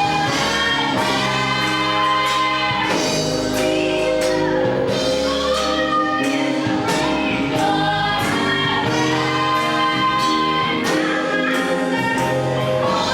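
Gospel choir singing with instrumental accompaniment: sustained sung notes over bass and a steady beat.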